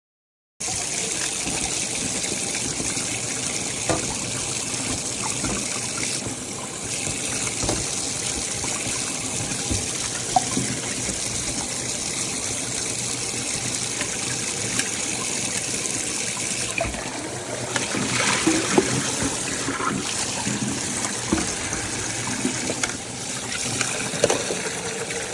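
Vianté electric kettle heating water: a steady rushing hiss with scattered small pops and bubbling, busier in the last third. The sound starts abruptly under a second in and cuts off at the end.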